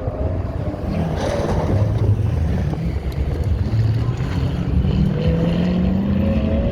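Engine of a race vehicle on an autocross course, running and then accelerating, its pitch rising steadily over the last few seconds, with wind buffeting the microphone.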